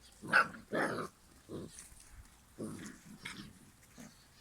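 Cane Corso puppies growling and barking in rough play, about five short outbursts with the first two the loudest.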